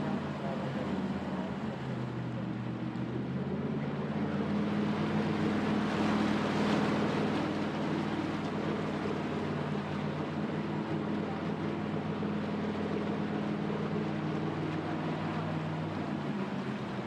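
Jet boat's engine running steadily under way, with a haze of rushing water and wind over it that swells about six seconds in.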